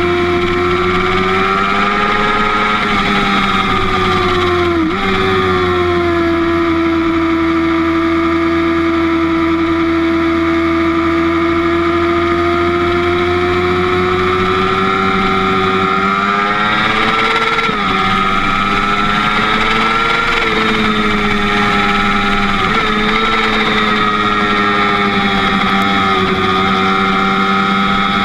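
Sport motorcycle engine running at a steady cruising speed, heard from the bike itself. The pitch dips sharply for a moment about five seconds in and again around eighteen seconds, and it rises and falls gently through the later stretch.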